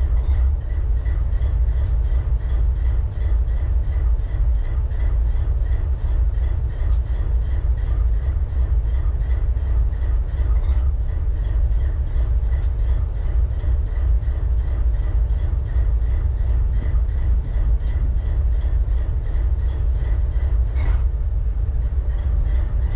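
Diesel freight locomotive engine idling with a steady low rumble and an even pulsing beat, running with a misfire.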